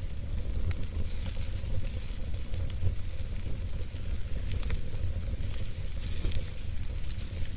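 Fireplace fire burning steadily: a continuous low rumble and hiss with scattered small crackles and pops from the burning wood.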